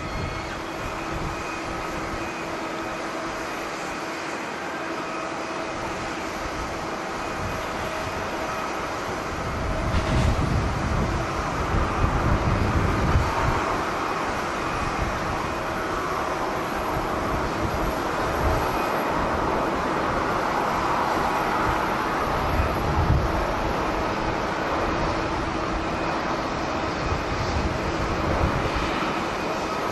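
Jet airliner engines running with a steady whine over a broad roar. Wind buffets the microphone in gusts from about ten seconds in.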